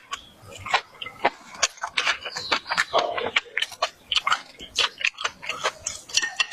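Close-up crunching of crispy fried food being bitten and chewed, irregular sharp crunches several times a second.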